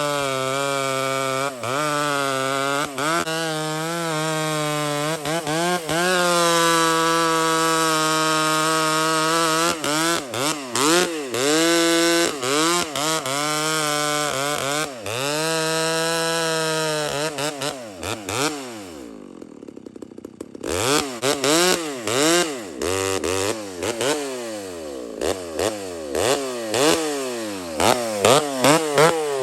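Two-stroke chainsaw engine running at high revs, its pitch wavering up and down for most of the time. About two-thirds in it drops to idle, then it is revved up and let fall back again and again.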